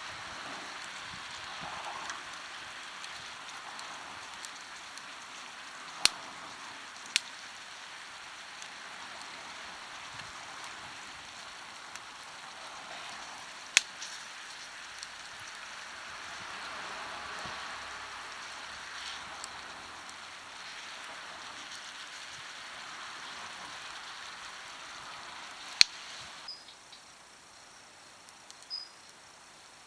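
Food sizzling in a carbon steel frying pan over a wood campfire: a steady hiss, with a few sharp pops from the burning wood. The sizzling cuts off suddenly a few seconds before the end, leaving it much quieter.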